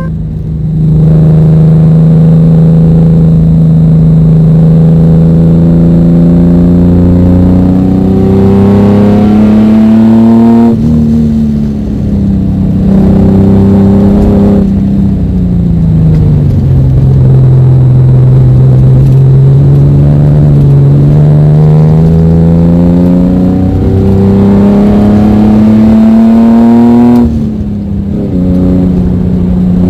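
Ford Mustang V6 engine pulling hard at track speed, heard from inside the car. Its pitch climbs steadily, drops sharply at a lift or shift about eleven seconds in and again near the end, and sags through the middle before rising once more.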